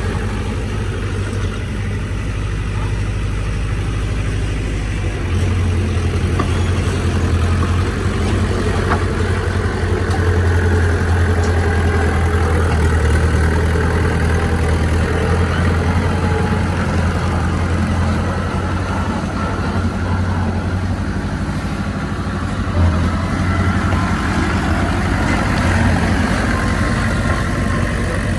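Heavy diesel engine of earthmoving machinery running steadily, with a strong low hum that grows louder about five seconds in. A single brief knock sounds about three-quarters of the way through.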